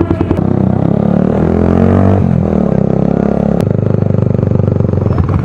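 Motorcycle with a loud aftermarket exhaust pipe accelerating: the engine note rises, drops at a gear change about two seconds in, rises again, then settles into a steady cruise just past the halfway point.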